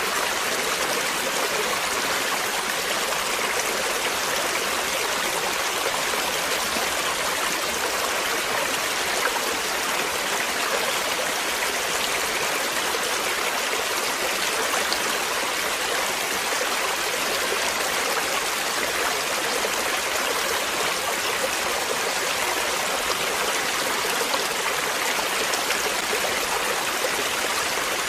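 Flowing water, a stream running in a steady, even rush.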